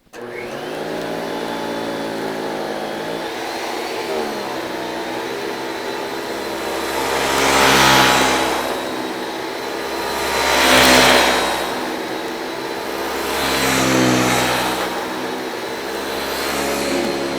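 1979 Hoover Celebrity IV canister vacuum switched on, its motor spinning up to a steady whine with the Powermatic power nozzle running. The sound swells three times, about eight, eleven and fourteen seconds in, while vacuuming.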